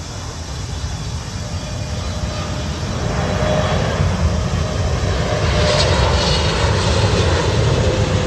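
Airliner coming in to land, its engine roar building over the first three seconds and then holding loud, with a faint high whine about six seconds in.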